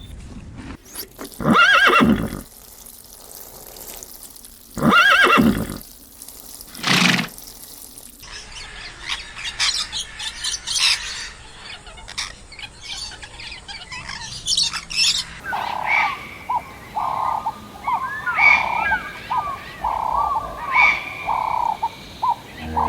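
A run of animal calls in three parts. First come three loud calls about a second long, which sound like neighing. A stretch of rapid, high chirping follows. From about two-thirds of the way in, short calls repeat about two a second.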